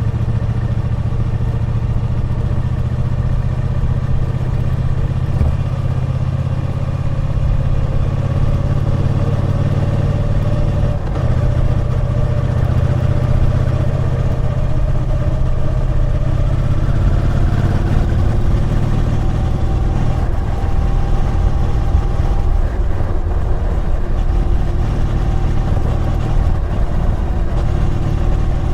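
Triumph Bonneville T120's 1200 cc parallel-twin engine running under way on the road, steady at first, then its revs climbing about two-thirds of the way through and holding higher.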